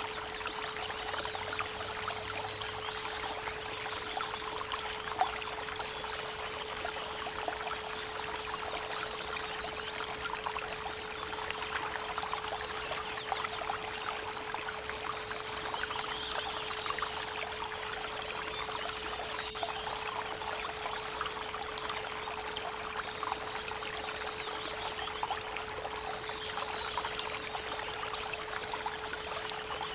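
A steady 432 Hz pure tone hums without a break beneath a babbling creek. Birds sing over the water, with a short high trill about five seconds in and again about 22 seconds in.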